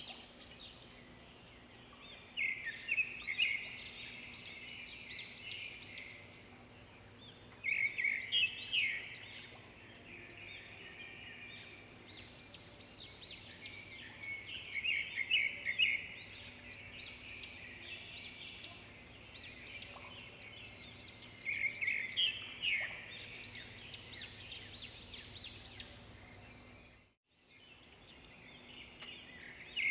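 Birdsong: a bird repeats a quick, chattering phrase of short high notes about every six or seven seconds, with quieter chirps between, over a faint low hum. The sound cuts out briefly near the end.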